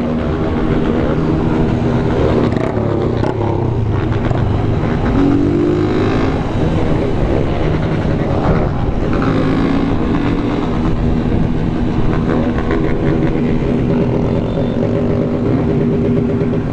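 Honda CG 160 Fan motorcycle's single-cylinder engine running while riding, among many other motorcycles of a convoy. The engine pitch rises and falls as the bikes rev and shift.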